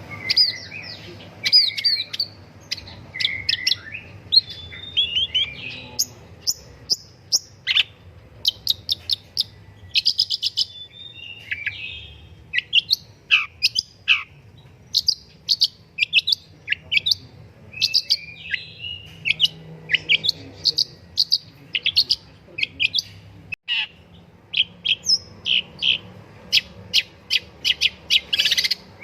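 Long-tailed shrike (pentet) in full song: a near-continuous, rapid run of short, varied chattering and whistled notes with only brief pauses.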